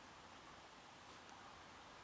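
Faint, steady rain hiss, with one soft click about a second in.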